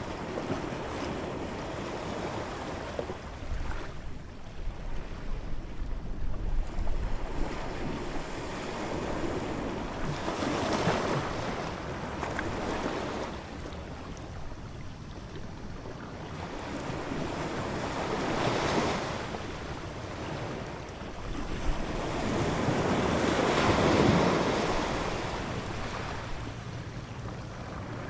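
Ocean surf: waves breaking and washing in, the noise swelling and ebbing with three bigger surges. Wind buffets the microphone for a few seconds early on.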